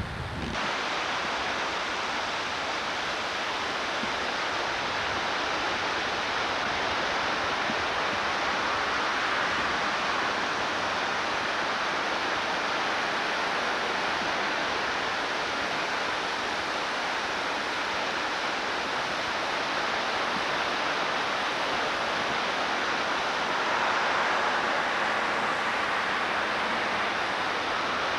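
Flooded Peshastin Creek rushing: a steady roar of fast, high water that begins abruptly about half a second in.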